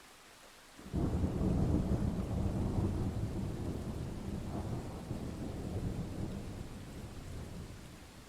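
A thunderclap breaks suddenly about a second in and rolls on as a deep rumble that slowly fades over several seconds, over steady rain.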